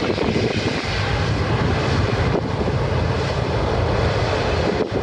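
Jet airliner's engines at high thrust, close by: a loud, steady roar, with the jet blast buffeting the microphone.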